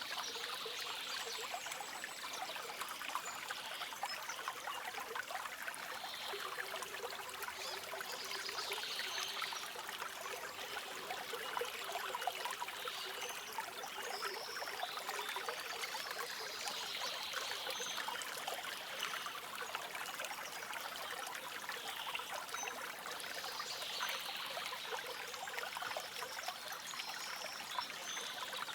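A stream flowing and trickling steadily, with short bird calls now and then.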